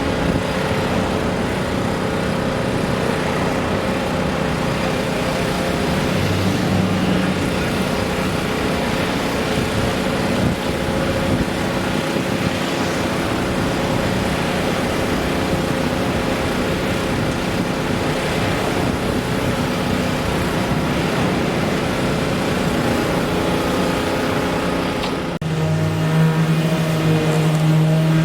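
A motor engine running steadily, with a constant hum. About 25 seconds in it changes abruptly to a louder, steadier drone.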